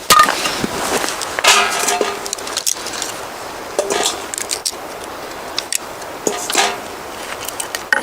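Irregular clinks and clatter of hard objects being handled, several with a short metallic ring.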